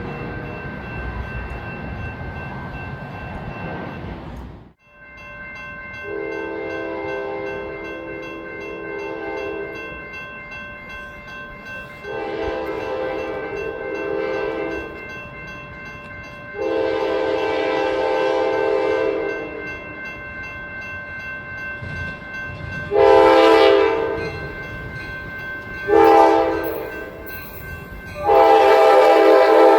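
A train horn sounding a series of blasts, three long ones and then two short ones, with a last long blast near the end over a steady train rumble.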